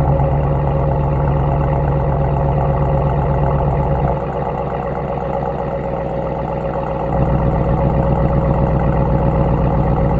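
2026 Dodge Durango GT's engine idling through its stock exhaust after a cold start, steady, growing quieter about four seconds in and coming back up about three seconds later.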